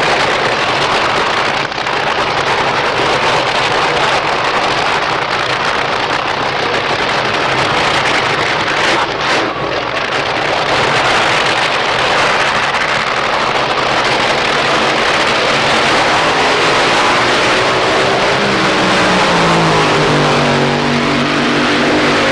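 Loud, steady motor-vehicle engine noise; from about eighteen seconds in, an engine's pitch climbs as it revs up, then holds.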